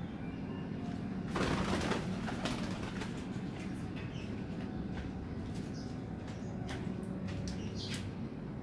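Domestic pigeons cooing in low, throaty tones throughout, with a brief flutter of wings about a second and a half in and a few scattered clicks.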